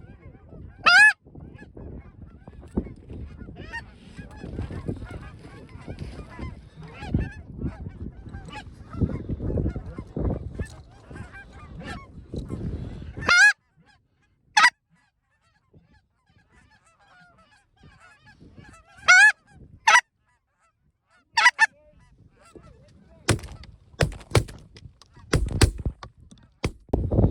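Goose honks and clucks, short and loud, about a dozen scattered through and several in quick succession near the end, over low wind rumble on the microphone in the first half.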